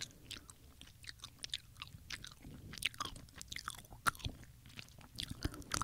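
Haribo gummy bears being chewed close to the microphone: a run of irregular short, sticky mouth clicks and smacks.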